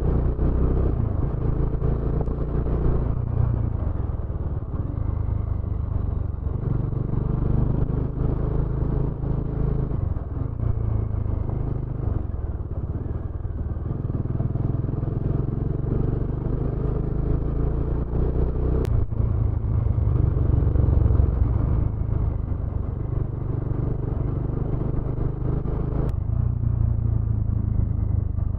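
Motorcycle engine running under way with road noise, its note shifting up and down in steps. Two sharp clicks come through, about two-thirds of the way in and again near the end.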